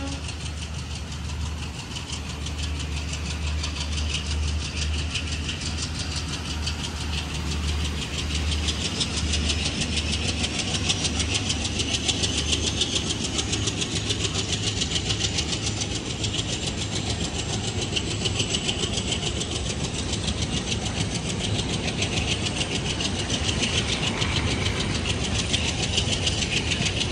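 Passenger coaches of a diesel-hauled train rolling slowly past as it pulls out, a steady rumble and wheel noise over a low diesel-engine drone. A faint high whine rises slowly in pitch through the middle.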